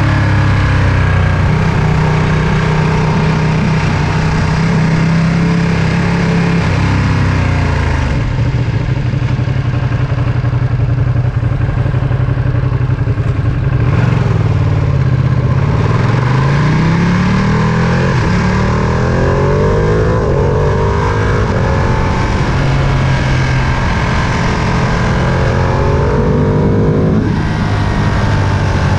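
Ducati Panigale V2's 955 cc L-twin engine running while the bike is ridden. The engine note falls about seven seconds in, climbs steadily between about sixteen and twenty seconds, then drops sharply near the end.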